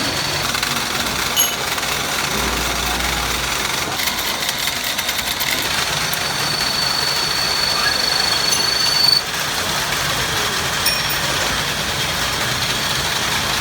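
Steady workshop machinery noise, with a high whine that runs for about three seconds past the middle and ends in a sharp click, and a couple of other brief clicks.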